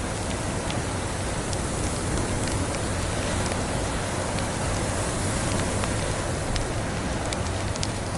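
Log fire crackling, with scattered sharp pops over a steady hiss.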